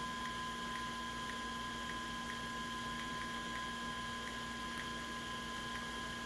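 Steady electrical hum and high whine from powered-up electronics, with faint light ticks about every half second.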